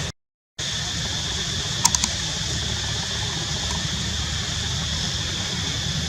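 Steady background hum and hiss, broken by a short dead-silent gap right at the start and three quick clicks about two seconds in.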